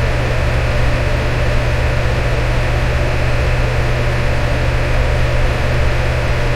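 Electric fan running steadily: an even rush of air over a strong low hum, with a faint steady tone running through it.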